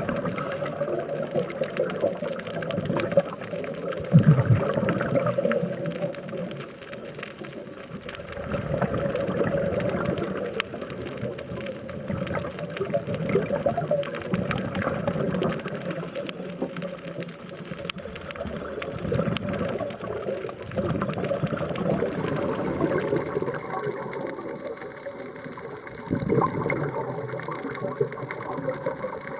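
Underwater sound of a scuba diver breathing through a regulator: exhaled bubbles gurgle and rush in swells every few seconds, over a steady fine crackle of clicks.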